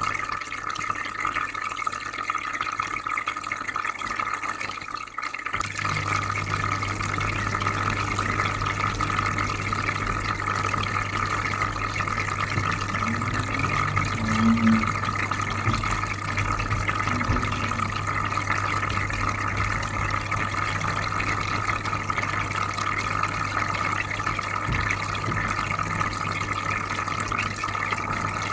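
Aquarium filter running with steady trickling, bubbling water. A low steady hum joins about five seconds in, and there is a brief louder blip about halfway through.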